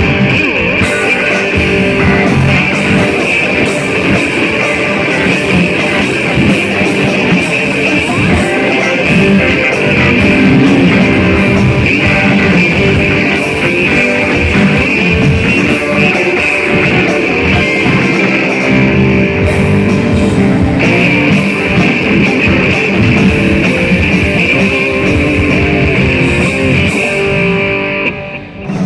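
Live rock band playing, with electric guitar out front over drums and bass.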